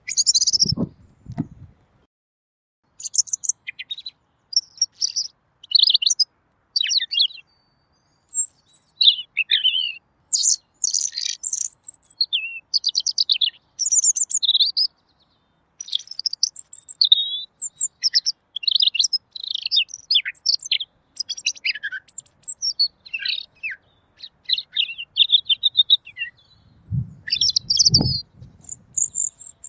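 A Pekin robin (red-billed leiothrix) singing: rapid, varied warbled phrases, high-pitched and clear, with short pauses between them. A low rumbling bump comes at the start and another near the end.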